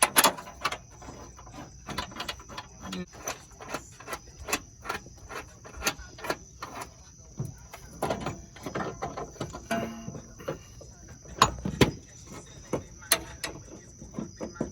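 Irregular metallic clicks, taps and knocks from hand tools working on a car, with a few heavier knocks partway through, over a faint steady high-pitched whine.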